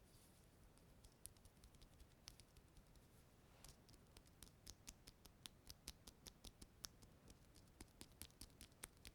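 Faint, crisp sticky clicks from a tacky surface being touched and pulled away from, sparse at first and then several a second from about three and a half seconds in.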